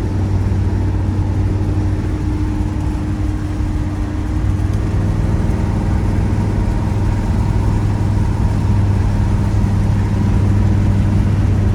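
The 402 big-block V8 of a 1972 Chevrolet El Camino SS running steadily while the car is driven, heard from inside the cab. About four and a half seconds in, the engine note shifts and grows slightly louder.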